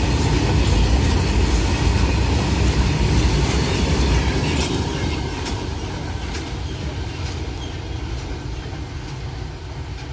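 Freight train of BOXN covered wagons rolling past, a heavy rumble with wheels clacking over rail joints. The rumble fades from about four seconds in as the train draws away.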